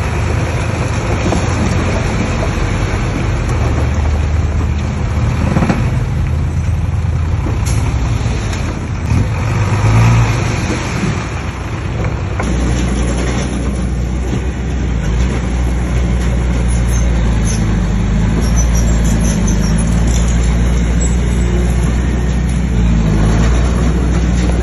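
Bulldozer's diesel engine running under load as it pushes stone fill, a steady low drone that dips and changes pitch briefly around the middle.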